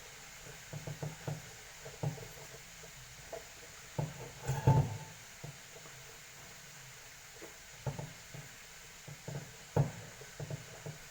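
Irregular knocks and clatter of kitchen work, cookware and utensils being handled and set down, with the loudest bunch of knocks about halfway through and a few more near the end.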